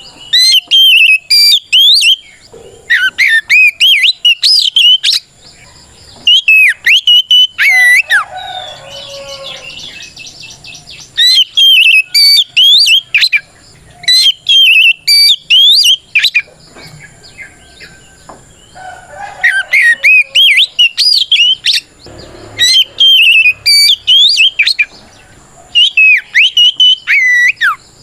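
Oriental magpie-robin (kacer) singing a loud, full challenge song of fast whistled notes that sweep up and down, delivered in phrases of one to two seconds with short pauses between them. This is the song used to call out a rival and provoke other magpie-robins into answering.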